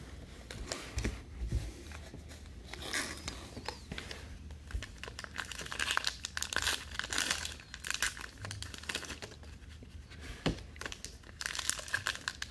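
Trading card pack wrappers being torn open and crinkled, with cards shuffled by hand: irregular crackling and tearing throughout.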